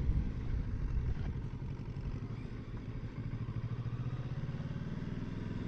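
Kawasaki Versys 650 parallel-twin motorcycle engine running at low speed, easing off about halfway through and then running steady.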